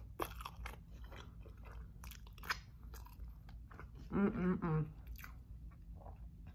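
Close-miked chewing of a soft burrito, with many small wet mouth clicks and smacks. A short hummed "mm" with closed lips comes about four seconds in.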